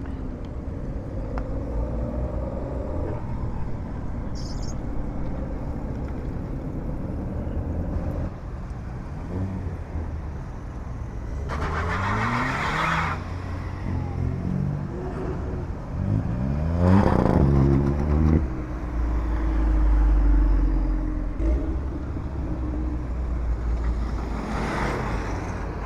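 Modified car engines idling and being revved at a car meet, with several rises in pitch about ten seconds in and again around fifteen to eighteen seconds. A short burst of hissing comes about twelve seconds in, and a deep rumble follows the last rev.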